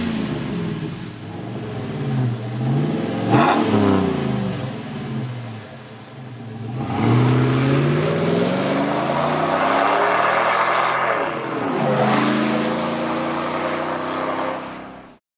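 6.0-litre gas V8 of a GM heavy-duty pickup revving through a Flowmaster American Thunder catback exhaust with a 50 Series HD muffler, a deep performance tone. A couple of quick rev blips come first, the sharpest about three and a half seconds in. From about halfway it is held at higher revs, rising again near the end, and it cuts off suddenly.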